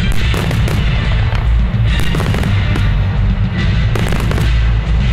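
Fireworks display: a rapid, irregular series of firework shells bursting, with bangs and booms, over music.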